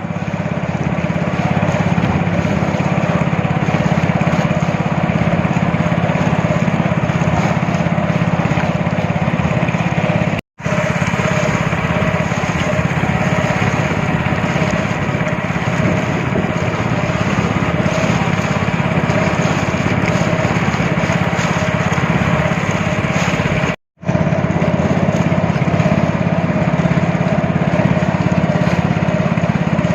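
Speedboat engine running steadily under way, over a steady rush of noise. The sound drops out for an instant twice, about ten seconds in and near 24 seconds.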